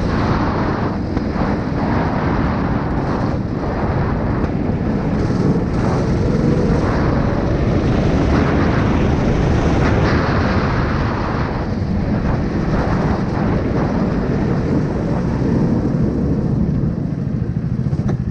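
A 9 hp engine running steadily, a dense low rumble without a break.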